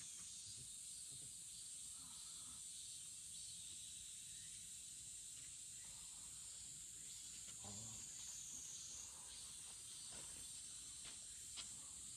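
Steady high-pitched drone of summer insects, with a few faint scattered knocks.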